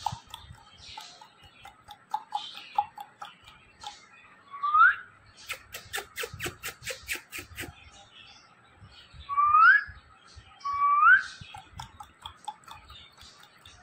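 Indian ringneck parrot giving short rising whistles, one about five seconds in and two close together near the end, with soft chirps between them. Around the middle comes a quick run of clicks.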